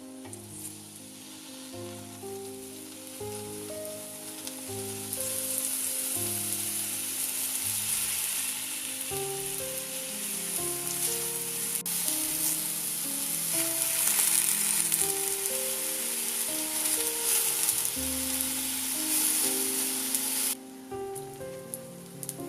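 Food sizzling in a hot frying pan, building a few seconds in and cutting off abruptly near the end, over soft background music.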